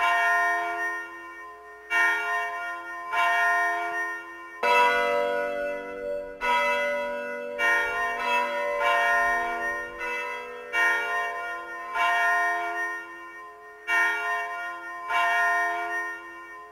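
Bells struck one after another at a slow, uneven pace, every second or two, each stroke left ringing. A lower, heavier bell joins about five seconds in and rings under the others for several seconds.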